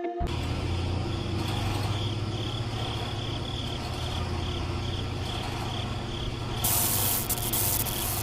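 A small motor humming steadily, with a high chirp repeating about three times a second. A loud hiss comes in near the end.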